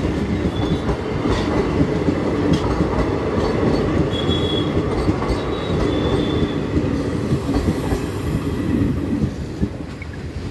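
Indian Railways passenger coaches rumbling past over the rails, their wheels clicking over the rail joints, with a couple of short high wheel squeals about four and six seconds in. The rumble drops away near the end as the last coach goes by.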